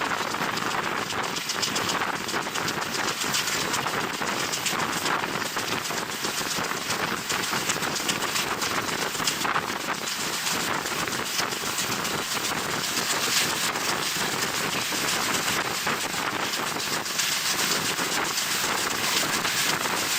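Passenger train running at speed, heard from an open window: a steady rush of the moving train mixed with wind buffeting the microphone.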